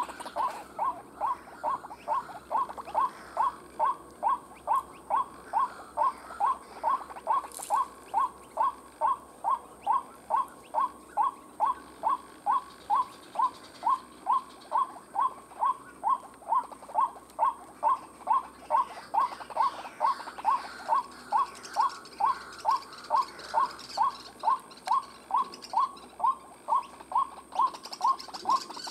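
White-breasted waterhen call: a short, falling note repeated evenly about two and a half times a second, used as the lure call in trapping.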